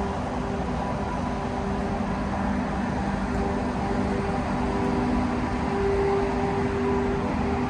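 Train hauled by a Renfe series 269 electric locomotive running, a steady rumble with several held humming tones.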